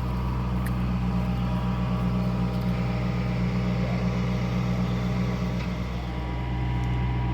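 Large diesel engine running steadily at a low, even speed, dipping slightly in loudness about six seconds in.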